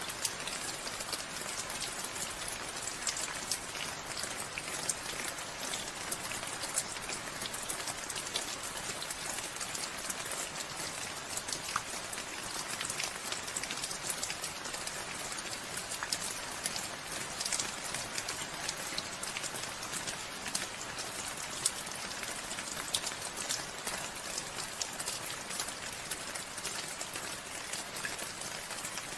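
Steady rain falling, an even hiss with many small drops pattering close by.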